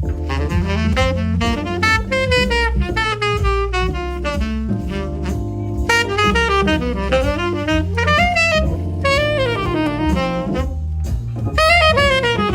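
Tenor saxophone improvising a jazz solo of quick runs and bending phrases over a walking bass line.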